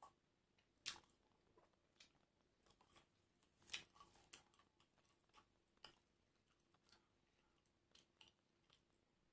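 Close-up chewing of crisp fried food: quiet, irregular crunches and mouth clicks, with the sharpest crunches about a second in and again near four seconds.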